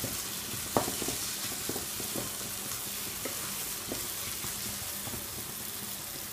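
Fried okra in a tomato-yogurt masala sizzling in a black kadai while a wooden spatula stirs it. The spatula knocks against the pan a few times, sharpest about a second in.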